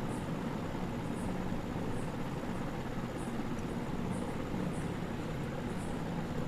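Steady low hum of background machine noise, like a fan or air conditioner running, with faint short high ticks about once a second.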